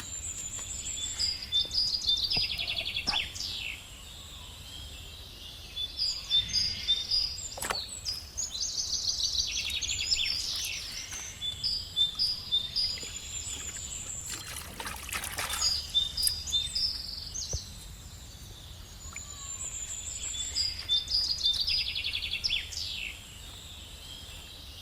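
Birds singing: bouts of high, fast chirps and trills that come again every few seconds, with a faint low hum beneath.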